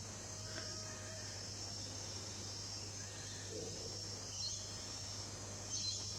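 Steady high-pitched outdoor insect chorus, with a low steady hum underneath and a couple of faint short chirps.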